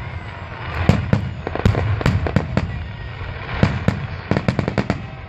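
Aerial fireworks shells exploding in quick succession, several sharp bangs a second over a low rumble, with a brief thinning about three seconds in.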